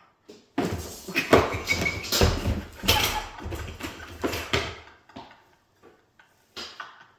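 A small box being thrown up and caught, with knocks and rattling from its handling and from something loose inside. The handling runs for about four seconds, and a single knock comes near the end.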